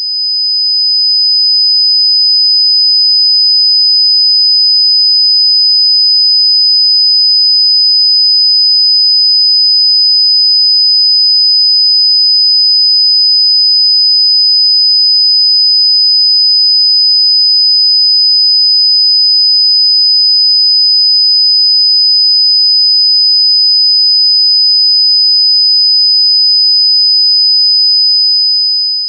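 A steady 5,000 Hz sine-wave test tone, a single pure high-pitched pitch held for about half a minute and cut off at the end.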